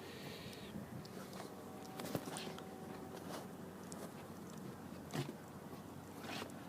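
Faint scattered clicks, taps and light rustles at irregular times, over a low steady hum.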